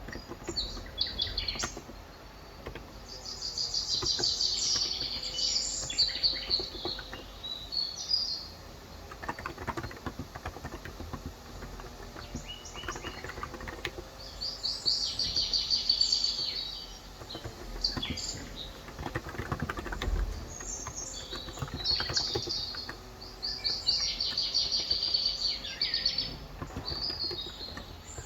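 Typing on a Cox Endeavour electro-capacitive (Topre-style) keyboard with 35 g switches, a steady patter of soft keystrokes. Birds outside chirp in rapid trilling bursts lasting a few seconds each, and these are the loudest sound.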